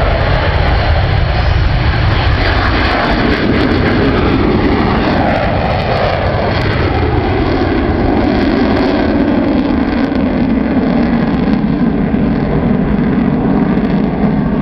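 Avro Vulcan's four Rolls-Royce Olympus turbojets at take-off power: a loud, steady jet roar. A few seconds in, sweeping tones fall in pitch as the bomber climbs away.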